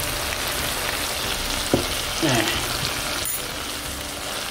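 Tomato, onion and pepper sauce frying in a pan, a steady sizzle, with a single short knock a little under two seconds in.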